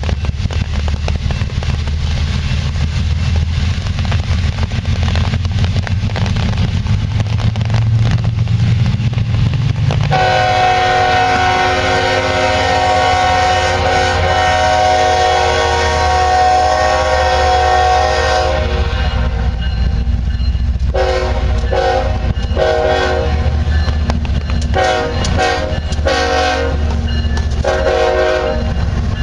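Diesel freight locomotives running with a steady low rumble. About ten seconds in, the multi-tone air horn sounds one long blast of about eight seconds, followed near the end by a string of shorter horn blasts.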